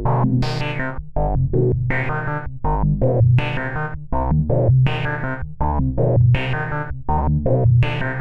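ADDAC105 4-Voice Cluster eurorack synth module playing triggered voices: a fast run of sharp, quickly decaying pitched hits, about two or three a second, over a steady low bass tone.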